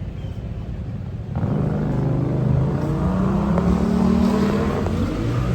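A motor vehicle's engine running close by. It comes in suddenly, much louder, about a second and a half in, and keeps running steadily with a low hum.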